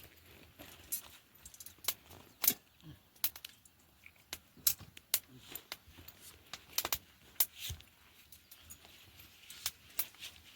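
Irregular sharp clicks and taps, a few a second, some much louder than others.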